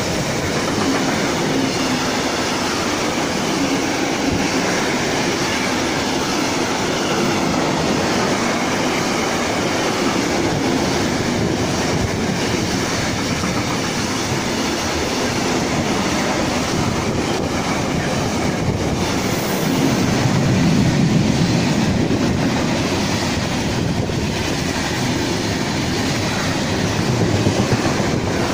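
Intermodal freight train's wagons, loaded with lorry semi-trailers, rolling past close by: a steady rumble and rattle of wheels on rail with some clickety-clack over the joints, swelling slightly near the end.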